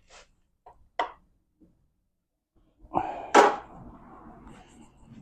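A small pry bar levering at the silicone-sealed joint of a manual transmission's rear housing: a few faint taps, then two sharp metallic knocks about three seconds in, followed by a lower rattling scrape.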